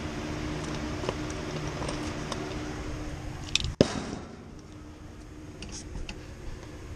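A steady machine hum with several held tones and scattered small clicks. Just under four seconds in there is a sharp knock, and the hum is quieter after it.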